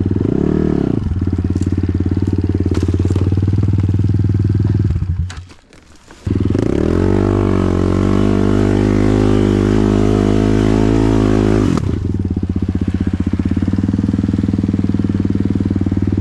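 Kovi GNS 300 enduro bike engine blipping and idling, cutting out about five seconds in, then restarting a second later. It revs high and steady for about five seconds, the rear wheel spinning without grip, before dropping back to idle.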